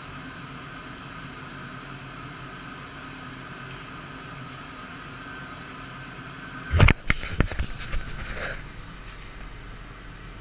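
Steady electric motor hum. About seven seconds in comes a short burst of loud knocks and clatter, lasting under two seconds.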